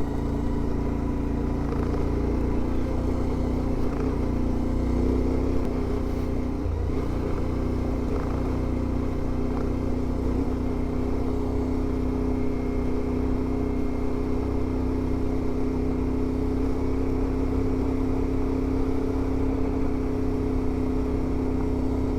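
Adventure motorcycle's engine running steadily under way, heard from on the bike. The engine note shifts briefly about five to seven seconds in, then holds steady again.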